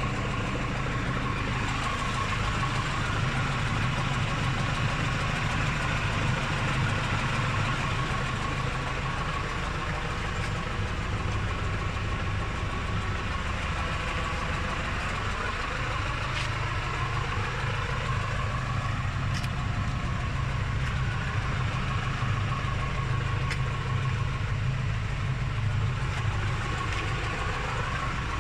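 Tractor engine running steadily at a constant speed while it drives a John Deere 575 round baler, which is running empty as a test.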